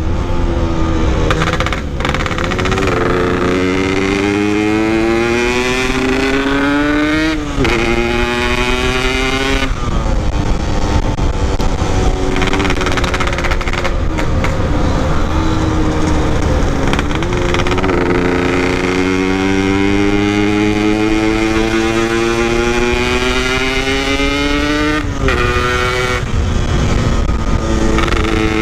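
Yamaha RX-King's two-stroke single-cylinder engine, ridden and accelerating through the gears. Its pitch climbs steadily and then drops sharply at each gear change, about four times.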